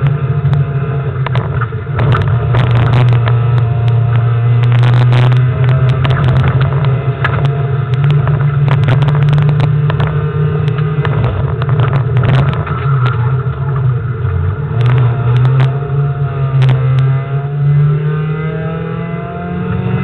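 Car engine driven hard, heard from inside the cabin, its revs rising and falling through corners and gear changes over steady road noise, with scattered sharp clicks and knocks.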